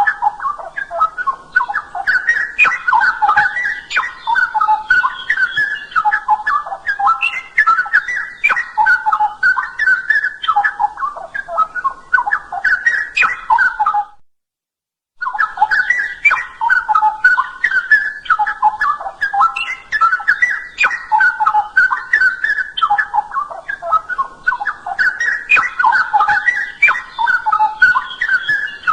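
Straw-headed bulbul (cucak rowo) singing: loud, continuous runs of quick warbled notes. Near the middle the song stops for about a second, then resumes.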